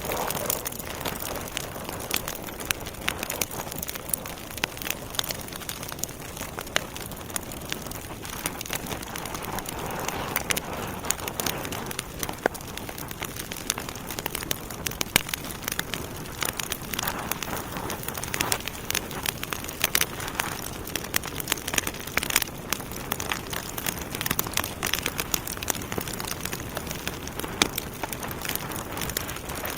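Wood fire burning in a fireplace, with steady hissing and frequent irregular crackles and pops from the burning logs.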